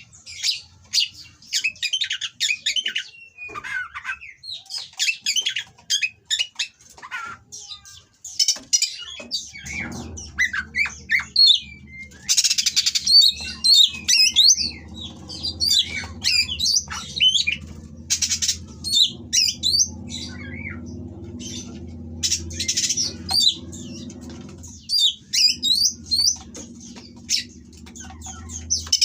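Oriental magpie-robin singing a fast, varied song of harsh chirps, squawky notes and whistled glides, phrase after phrase with short pauses. A low steady hum comes in underneath about a third of the way in.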